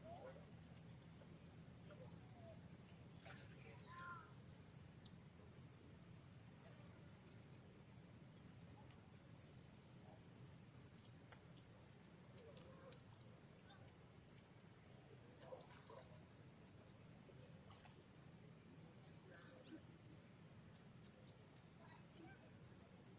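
Faint, steady, high-pitched insect chirring, with a few faint squeaks here and there.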